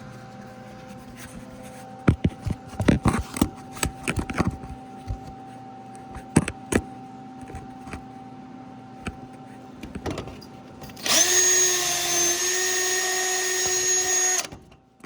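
Metal tools clinking and knocking for a few seconds, then a handheld electric power tool runs steadily at full speed for about three and a half seconds with a motor whine and stops, during work on an engine's broken exhaust manifold studs.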